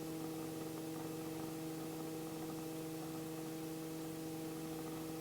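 Robinson R44 helicopter in flight during the climb after takeoff, heard as a steady hum made of a few even tones that do not change.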